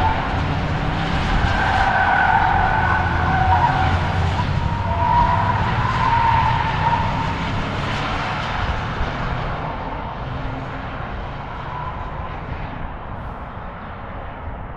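Car tyres squealing under hard, high-speed driving, over the car's running engine. The squeal is strongest in the first half and fades out over the second half.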